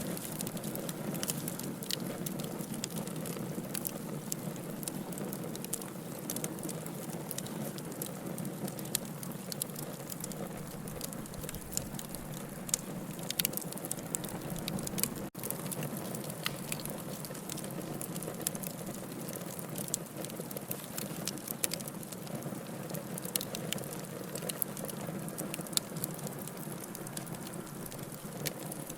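Wood fire burning in a fireplace: a steady hiss with frequent sharp crackles and pops. The sound drops out for an instant about halfway through.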